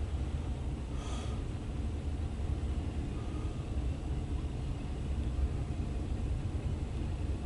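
Double-stack intermodal freight train rolling past, a steady low rumble heard muffled through the car body, with a brief hiss about a second in.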